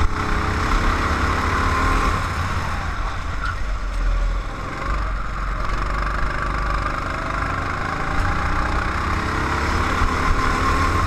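Racing vehicle engine heard onboard at speed, its revs rising and falling through gear changes and corners, over a steady low rumble.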